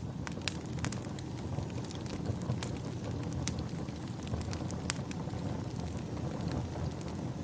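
Wood fire crackling, with sharp pops every half second or so over a steady low rumble.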